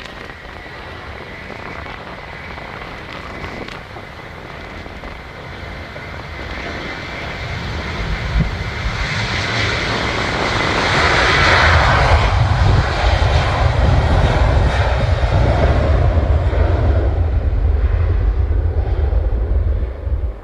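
Boeing 737-800's CFM56-7B turbofan engines at take-off power: a steady high whine at first, then the engine noise swells over several seconds to its loudest about halfway through, with a heavy deep rumble underneath from then on.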